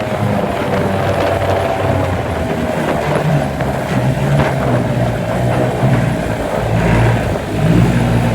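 A 5 horsepower outboard motor running at speed, pushing a small aluminium boat, with wind and water noise over it. The engine note sags slightly in the first couple of seconds. The motor is raised on a jacking plate, and its bronze racing propeller runs partly surface-piercing.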